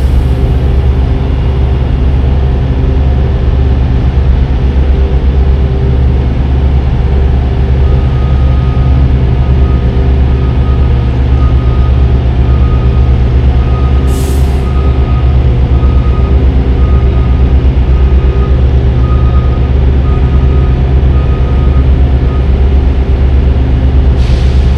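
Semi truck's diesel engine running steadily under way, heard from inside the cab as a loud, constant low drone. For a stretch in the middle a high tone beeps on and off repeatedly, and there are two short hisses, one about halfway and one near the end.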